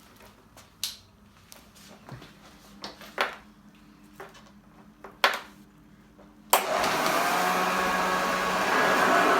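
A few scattered clicks and knocks, then about six and a half seconds in a 1968 Hoover Junior 1346 upright vacuum cleaner is switched on and runs steadily and loudly, its motor whine rising briefly as it spins up to speed.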